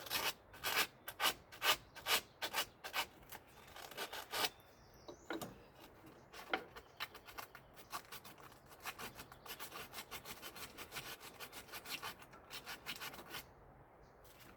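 Hand scrubbing of a car part by brush, about two or three strokes a second. The strokes pause about a third of the way in, come back quicker and denser, and stop shortly before the end. The part is being cleaned up and is not coming clean easily.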